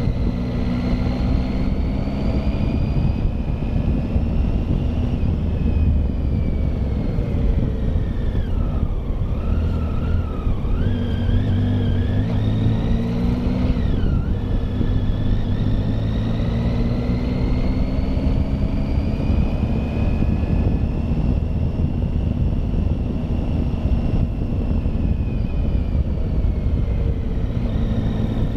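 Triumph Tiger motorcycle engine running under way on a climbing road. Its pitch drops and wavers about a third of the way in, jumps back up near the middle, then rises and falls slowly with the revs.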